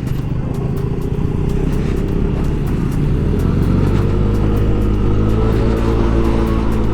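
Yamaha Aerox scooter's single-cylinder engine running under way, its pitch rising slowly as it picks up speed.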